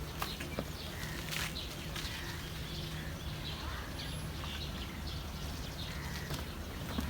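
Birds chirping in scattered short calls over a steady low hum, with a few faint clicks.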